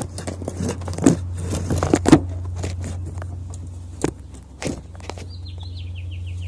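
50cc two-stroke dirt bike engine idling steadily while it warms up, with scattered knocks and footsteps around it. A bird gives a quick run of short falling chirps near the end.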